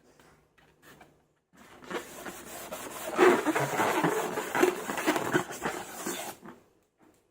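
Close-miked squeezing and rubbing noise from hand-handled slime or balloon material, a dense crackling rub that starts about a second and a half in and stops near the end.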